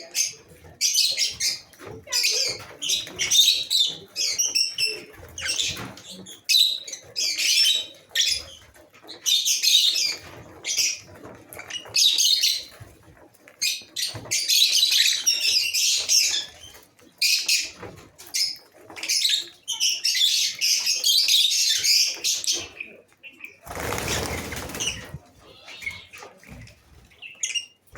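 A colony of lovebirds chattering with dense, high-pitched, irregular calls. Late on, a brief rushing noise cuts across the calls for about a second.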